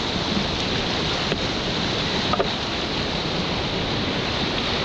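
Steady rushing of river water through a rapid, an even hiss with no break.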